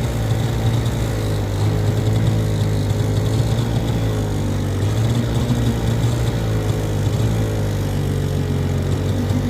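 Outboard motor of a small flat-bottom boat running steadily at low speed, a motor the owner says is still "a little sick".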